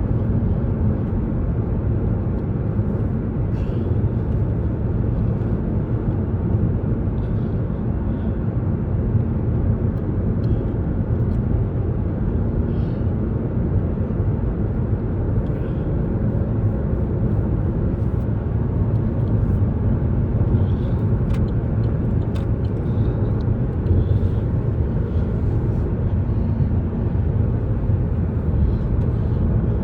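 Steady low road and engine noise of a car driving at highway speed, heard from inside the cabin.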